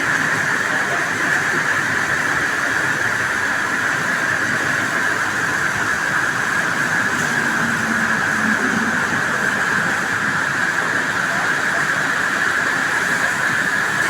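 Heavy rain falling, a loud steady rushing hiss.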